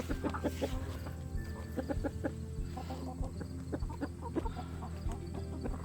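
Chickens clucking, many short clucks from several birds, as they feed on halved cucumbers and kale.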